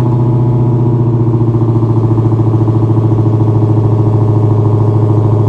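Dodge SRT Hellcat Redeye's supercharged 6.2-litre Hemi V8 idling steadily, with an even, rapid exhaust pulse.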